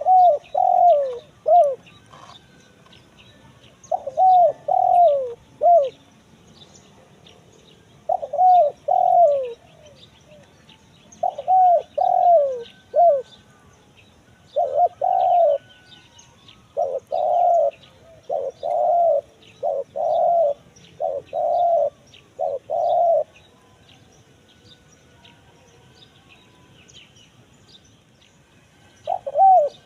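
Spotted dove (tekukur) cooing in the crisp 'kuk 1 mersik' song type: short phrases of about three notes every few seconds, each note dropping in pitch. In the middle comes a longer run of about eight notes, and near the end there is a gap of about five seconds before the next phrase. Small birds chirp faintly underneath.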